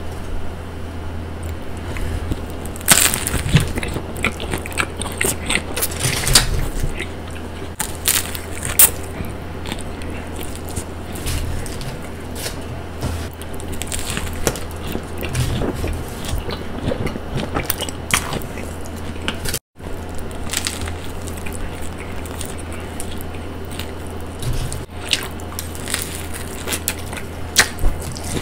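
Close-miked biting and chewing of a toasted sub sandwich: irregular crunches of the crusty bread and chewing noises over a steady low hum.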